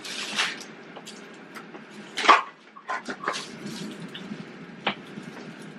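Groceries being handled and set down: a few short knocks and rustles of packaging and cans, the loudest about two seconds in.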